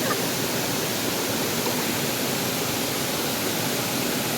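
Water rushing steadily down a waterfall and its rocky stream.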